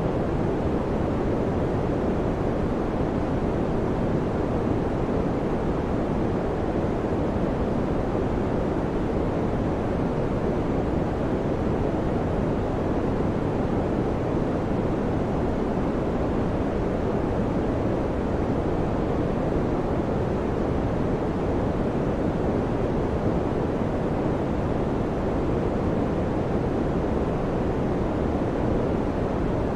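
Electric fan running steadily: an even, unbroken low whooshing noise with no change in level or pitch.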